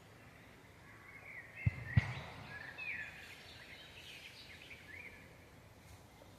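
Songbirds chirping and warbling in a forest, a busy run of short calls for a few seconds. Two sharp low thumps land close together about two seconds in.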